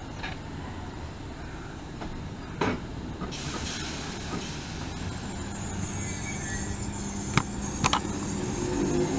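Train running, a steady rumble with a few sharp clicks, a low steady hum coming in about halfway, and the noise growing louder towards the end.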